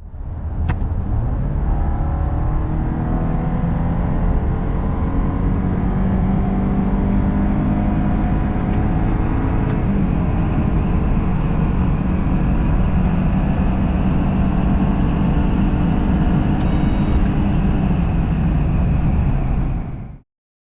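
BMW 318i's 2.0-litre four-cylinder turbo petrol engine pulling hard under full acceleration from 100 to 150 km/h through its 8-speed automatic, with heavy road and wind rumble. The engine note rises steadily, breaks at a gearshift about halfway through, then climbs again more slowly.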